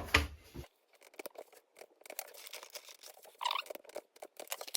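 Small clicks and crackles of a laser-cut plywood kit part being worked free of its sheet, with a brief squeak of wood about three and a half seconds in.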